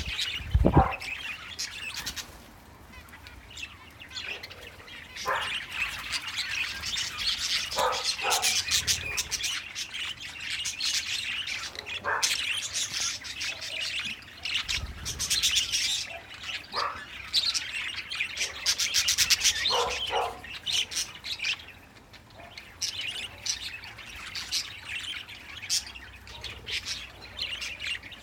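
A pair of pet budgerigars warbling and chattering: a continuous rapid twittering with short chirps mixed in, the chatter of a bonded pair. A couple of low thumps in the first second.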